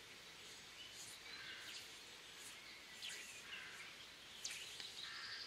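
Faint birdsong: scattered short chirps and whistles, with a quick trill near the end, over a quiet outdoor hiss.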